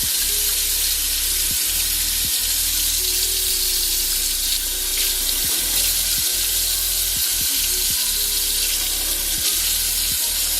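Sink tap running steadily as a makeup sponge is rinsed under cold water, with a steady low hum underneath.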